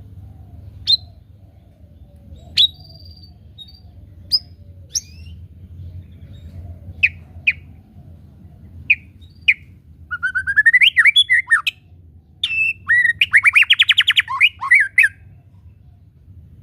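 White-rumped shama calling: sharp single chirps a second or two apart, then, about ten seconds in, two longer song phrases of rapid trilled and sliding notes.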